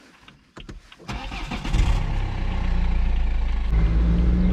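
A few clicks, then a car engine starts about a second in and settles into steady running.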